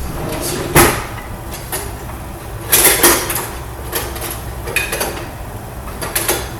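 Kitchenware being handled: pots, pans and utensils clanking and knocking in several sharp clatters, the loudest about a second in and around three seconds in.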